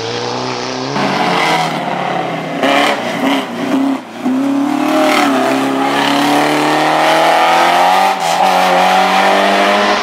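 Rally car engine under hard acceleration, revving up through the gears. There is a sharp lift and drop-out about four seconds in, then a long climbing rev.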